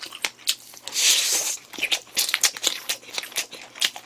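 Close-miked chewing of a mouthful of rice mixed with crunchy pork cartilage and chicken gizzards: rapid crunches and wet clicks, with a short hiss about a second in.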